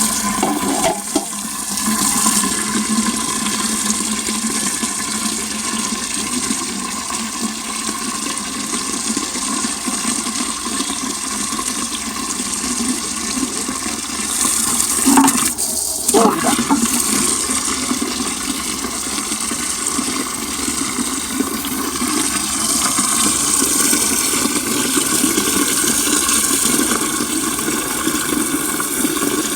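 Stream water pouring steadily into an earthenware crock as it fills, a continuous rushing gurgle, with a brief splashing change about halfway through.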